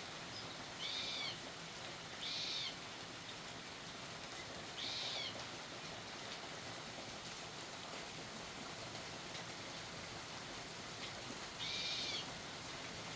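A bird calling with four short, arched chirps of about half a second each, spaced unevenly, over a steady hiss.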